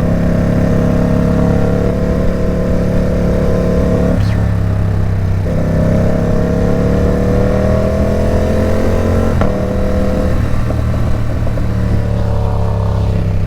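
Ducati Supersport 950 S's 937 cc L-twin engine through a loud Competition Werkes aftermarket exhaust, heard from the bike while riding. It holds steady, breaks off about four seconds in, then pulls with a rising note before a gear change at about nine and a half seconds, after which it runs steady.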